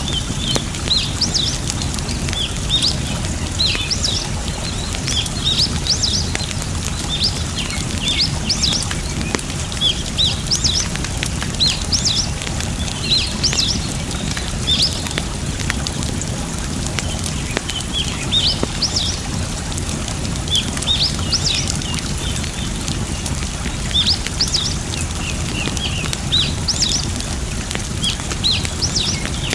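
Campfire crackling with a steady rush of water underneath, and small birds chirping busily in short, high rising calls.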